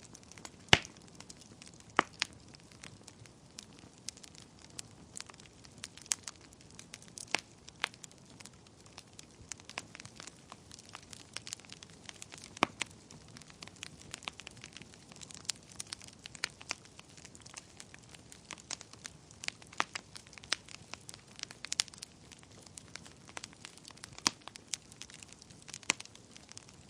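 Wood fire burning in a fireplace: steady soft hiss with frequent irregular crackles and sharp pops, a few louder pops standing out.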